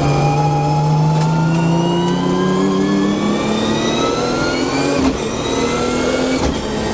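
GT-R engine heard from inside the cabin, accelerating with its pitch rising steadily for about five seconds, then levelling off.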